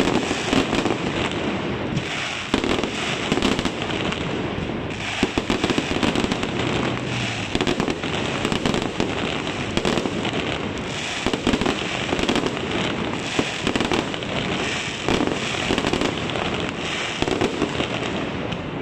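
Aerial fireworks display: a dense, unbroken barrage of bursts and crackling, the level falling off near the end.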